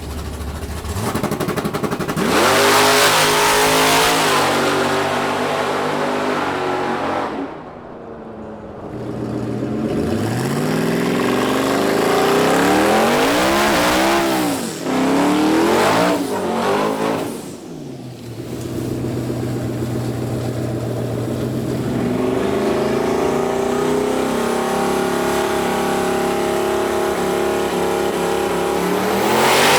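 Car engines revving and accelerating hard, their pitch sweeping up and falling back several times, then running at a steadier drone through the last third.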